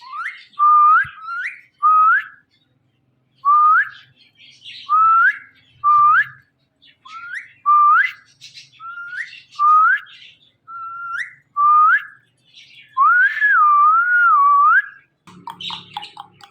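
Indian ringneck parrot whistling a short rising whistle over and over, about a dozen times, then one longer wavering whistle.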